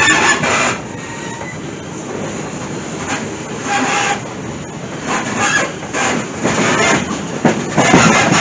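Passenger train car rolling along the track, heard from on board: a loud rattling and clacking that rises and falls in surges, with a brief wheel squeal about four seconds in.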